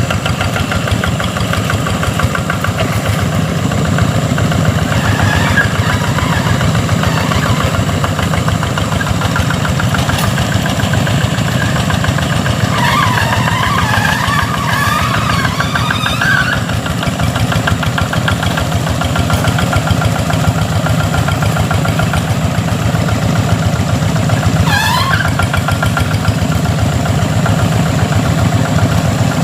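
Tractor engine running steadily and unbroken. A short wavering high-pitched sound comes through it around the middle, and a brief rising chirp comes near the end.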